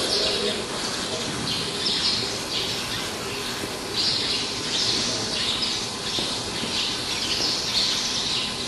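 Small birds chirping over and over in short high calls, above a steady background hiss.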